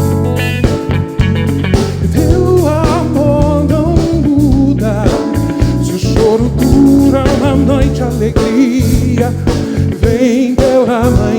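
Live band playing a soul groove: a steady bass line, drum kit hits and guitar, with a wavering, sliding melody line over the top.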